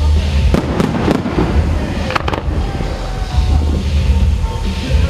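Fireworks display: aerial shells bursting in sharp bangs, several in quick succession about half a second in and again just after two seconds, with crackling between them over a low rumble.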